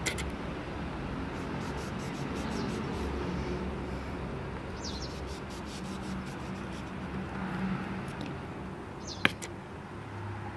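Outdoor background with two short bird chirps, one about halfway and one near the end, and a sharp click just after the second. Faint small clicks of a kitchen knife cutting into lemon rind.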